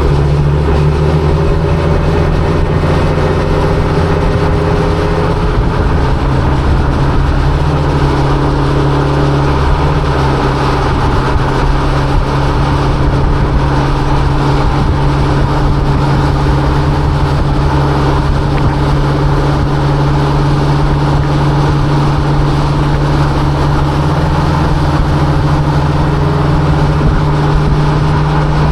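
1955 Chevrolet First Series 3100 pickup's engine running steadily while cruising, with a slight shift in pitch during the first few seconds.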